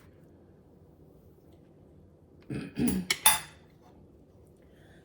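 Plate and utensil clinking a few times in a quick cluster about two and a half seconds in, as toppings are put back on a slice of taco bake.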